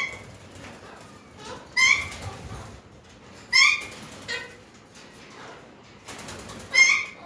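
Parakeets calling: four loud, short squawks a second or two apart, with a few softer calls in between.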